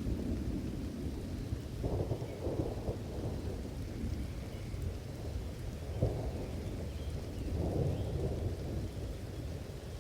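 Thunderstorm: low thunder rumbling continuously under steady rain, swelling about two seconds in and again around six and eight seconds.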